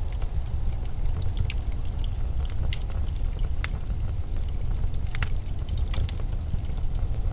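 Blizzard wind as a steady low rumble, with scattered sharp crackles and ticks over it.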